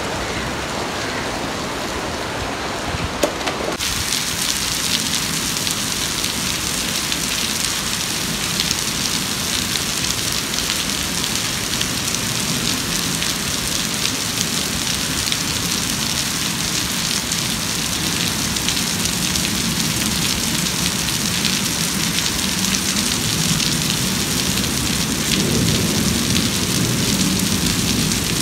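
Steady rain falling on wet concrete paving and grass: a dense, even hiss of drops splashing. About four seconds in, the hiss suddenly turns brighter and sharper.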